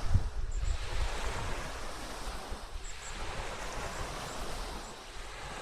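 Wind buffeting the microphone over a steady rushing noise, the low buffeting heaviest in the first second or so and easing after.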